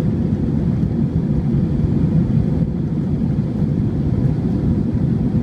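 Steady low roar of an airliner's engines and rushing air, heard inside the passenger cabin after takeoff, with a faint steady hum over it.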